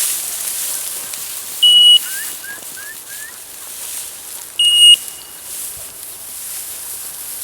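A bird dog's beeper locator collar sounding two short high-pitched beeps about three seconds apart; the beep cadence tells the hunter whether the dog is moving or on point. Four faint rising chirps come between the beeps.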